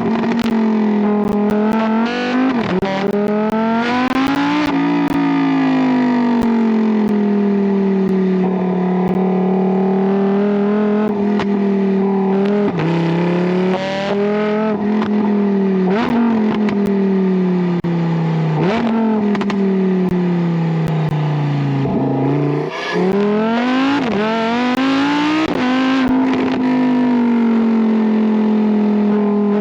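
Lamborghini Huracán Tecnica's naturally aspirated 5.2-litre V10 running under way, its pitch rising and falling steadily through the gears. Several sudden pitch jumps come at gear changes, with short sharp cracks from the exhaust.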